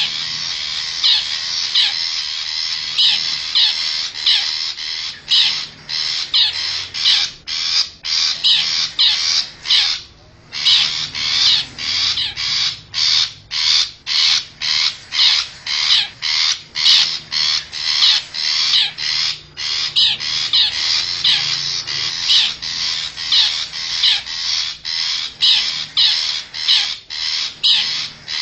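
Long-tailed shrike (cendet) giving harsh, scratchy calls over and over at about two a second, with a short pause about ten seconds in. This is a lure call used to draw in wild shrikes.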